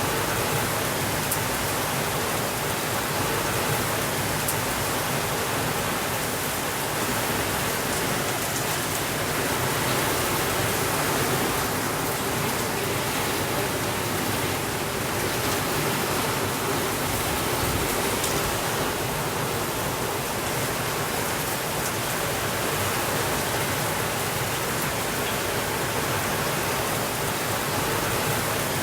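Steady rainfall, an even hiss with no letup, with a few faint ticks in it.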